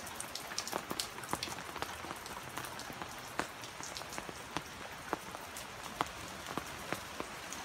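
Heavy rain falling, a steady hiss with many sharp ticks from individual drops striking close by.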